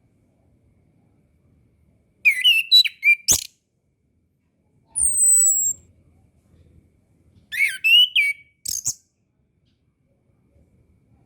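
Chestnut-capped thrush (anis kembang) singing: two short phrases of quick, wavering whistled notes, with a thin, high, falling whistle between them.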